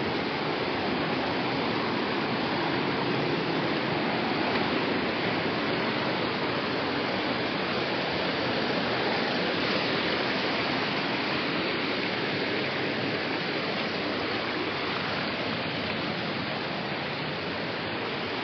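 A steady, even rush of flowing water.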